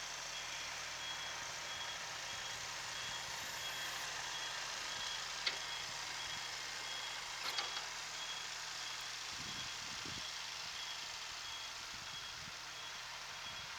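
Reversing buzzer on a Kubota SL28H tractor beeping steadily, about two high beeps a second, as the tractor backs up with its engine running. Two sharp knocks come about five and seven and a half seconds in.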